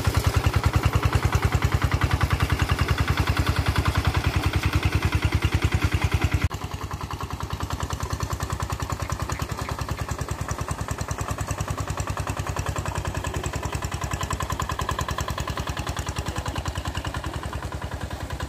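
Tractor engine running with an even, steady beat. Its level drops suddenly about six and a half seconds in, then carries on steadily.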